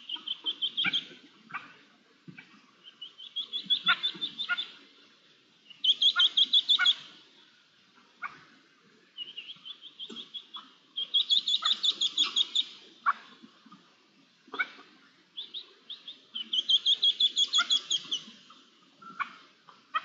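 A bird singing: a rapid trill of high notes about a second long, repeated about every three seconds, with short single calls scattered between the trills.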